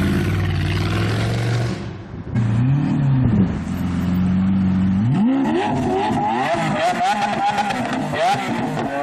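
Supercar engines revving loudly. A steady held note breaks off abruptly about two seconds in, followed by a quick rev up and back down. After another held note, an engine climbs in pitch and then rises and falls repeatedly toward the end.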